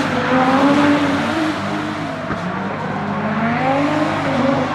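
A drift car's engine revving hard, its pitch rising and falling over and over as the throttle is worked, with tyre noise underneath.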